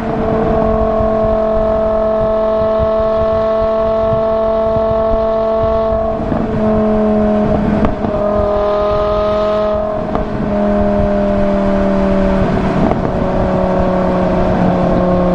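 BMW M6's naturally aspirated 5.0-litre V10 running under way at steady revs, its note held at one pitch for several seconds and then stepping in pitch a few times with brief breaks, about six, eight and ten seconds in.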